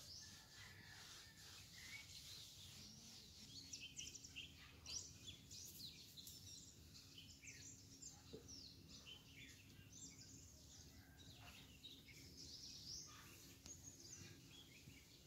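Faint chirping of small birds: many short, quick calls and falling notes, scattered irregularly. A faint steady low hum joins about three seconds in.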